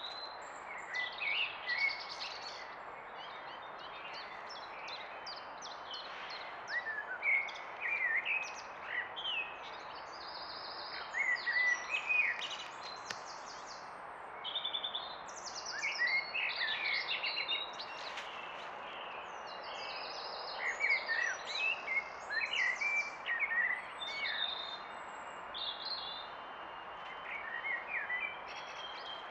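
Songbirds singing, short chirping and trilled phrases coming every second or two, over a steady background hiss.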